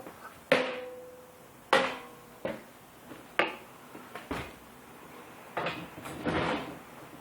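A series of sharp knocks and clatters, about seven in all, spaced a second or so apart, some leaving a brief ringing tone like a hard household object being struck or moved.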